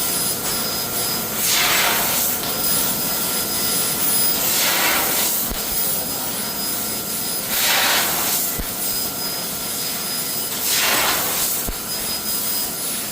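CNC laser cutting machine running on steel: a steady rushing hiss of gas and air, swelling about every three seconds, four times in all.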